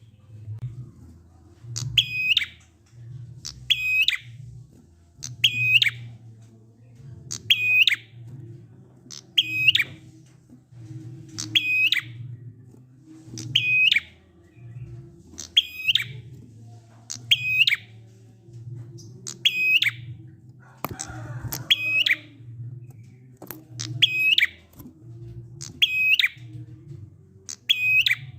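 Prenjak (prinia) call played as a lure: a short, sharp call repeated evenly about every two seconds, each time the same, over a low steady hum.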